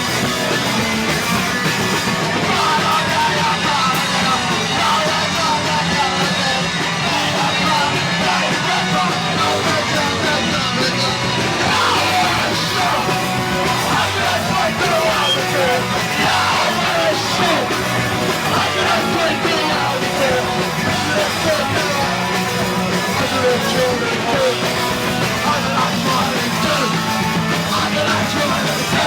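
Punk band playing live at full volume, with shouted vocals over the band.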